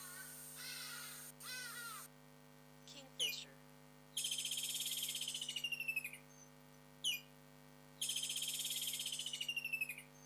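A bird's harsh repeated calls, cut off about two seconds in, followed by a songbird singing: a short, sharp down-slurred note, then two long, rapid high trills, each ending in a drop in pitch, with another sharp note between them.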